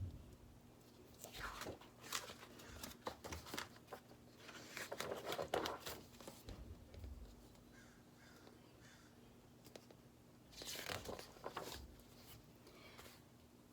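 Faint rustling and soft handling clicks of a picture book's paper pages being turned, in three short bouts with quiet gaps between.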